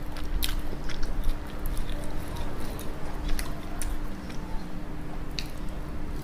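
Close-miked biting and chewing of spicy sauce-coated fried chicken, with sharp crisp crackles now and then, over a faint steady hum.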